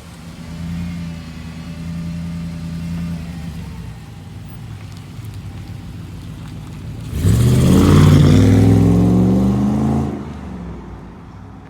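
5.7 Hemi V8 of a 2008 Jeep Commander with a Magnaflow exhaust and K&N cold air intake, running at a low steady speed. About seven seconds in it is revved hard, its pitch climbing, held for about three seconds, then it drops back to idle.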